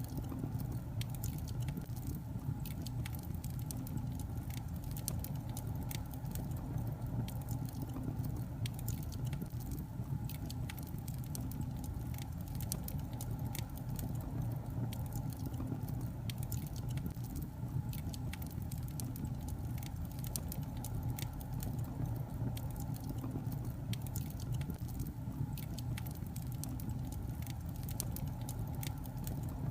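Log fire crackling: frequent small irregular pops and snaps over a steady low rumble.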